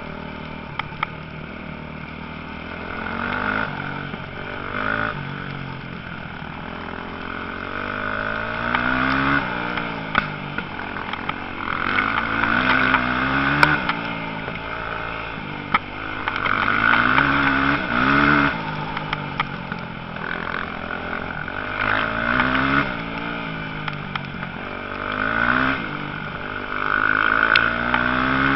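Motocross motorcycle engines revving and accelerating, each rising in pitch, dropping back at a gear change or throttle lift, then rising again, with louder passes every few seconds.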